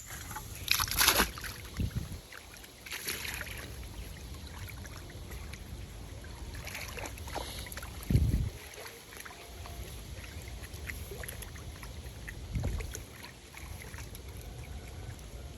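Water sloshing and dribbling, with scattered clicks, a louder splash-like burst about a second in, and two dull thumps about eight and twelve seconds in.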